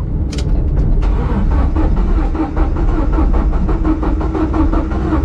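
Dodge Neon SRT-4 coasting after running out of fuel: a steady low road-and-tyre rumble heard inside the car.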